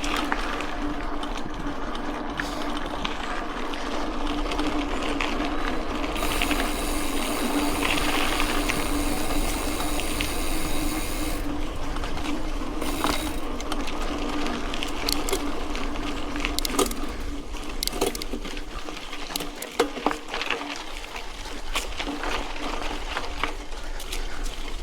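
Mountain bike riding on a dirt road: a steady mechanical buzz from the bike, with tyre noise and many sharp clicks and rattles over it. A louder hiss rises from about six seconds in and drops away near the middle.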